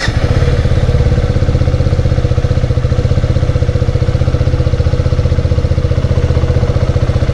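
KTM motorcycle's single-cylinder engine idling steadily just after being started, with an even, rapid pulse.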